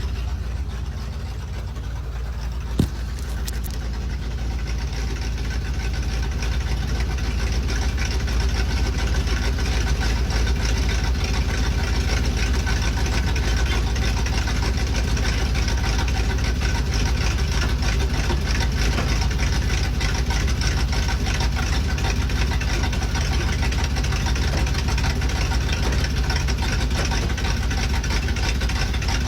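C60 dump truck's engine idling steadily, with one sharp click about three seconds in. From about four seconds on it runs a little louder and fuller.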